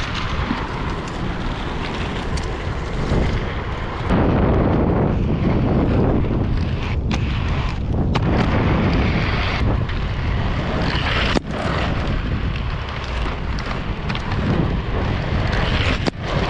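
Wind buffeting the microphone over the rumble of inline skate wheels rolling on pavement, with a few short sharp clicks. The rumble gets louder about four seconds in.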